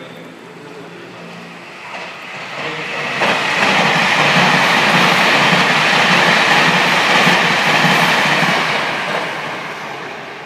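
An electric passenger train passes on the station tracks. Its rumble and wheel-on-rail noise build over a couple of seconds, hold loud with a rhythmic clatter of wheels, then fade away as the train leaves.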